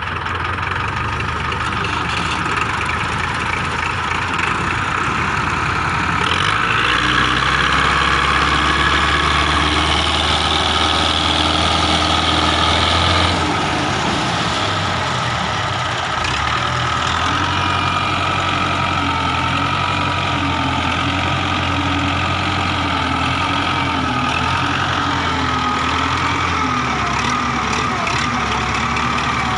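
Massey Ferguson diesel tractor engine running steadily. About six seconds in it gets louder and deeper for about seven seconds, then settles back.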